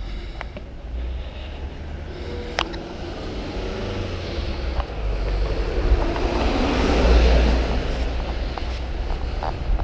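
Outdoor traffic ambience: a steady low rumble, with a passing vehicle swelling up about six to eight seconds in. A single sharp click a little after two and a half seconds.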